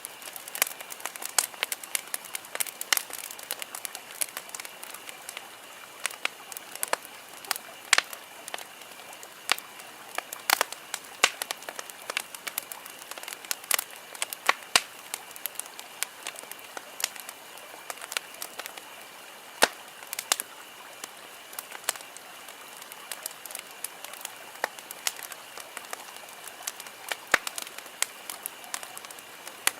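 Wood campfire crackling: irregular sharp pops and snaps, often several a second, over a steady hiss of burning, with a faint steady high-pitched drone behind it.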